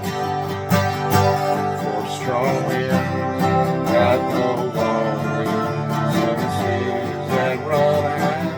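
Twelve-string acoustic guitar played steadily as folk-song accompaniment, with chords ringing on and regular new strokes.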